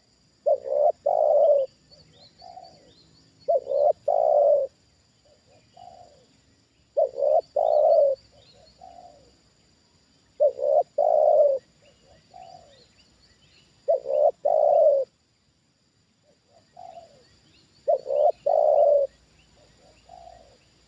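Spotted dove cooing: six loud phrases about every three and a half seconds, each a quick double coo followed by a fainter trailing coo.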